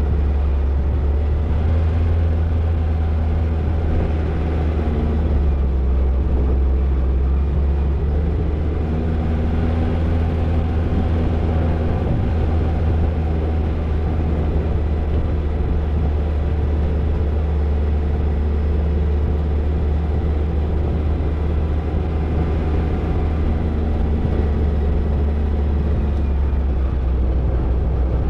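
Toyota Tercel 4WD wagon's engine running steadily under way, a deep, even rumble with no change in revs.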